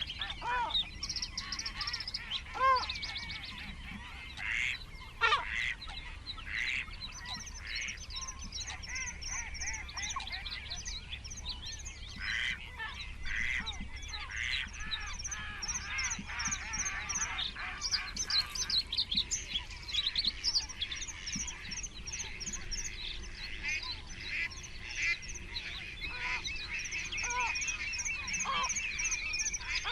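Wild birds calling together: continuous high chirping and trilling from songbirds, with a few louder, lower, arched calls from a larger waterbird in the first few seconds.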